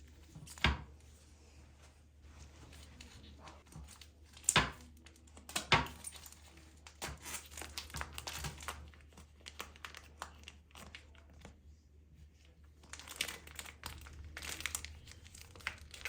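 Crinkling and tearing of some crinkly material being handled, with sharp knocks about half a second, four and a half and nearly six seconds in.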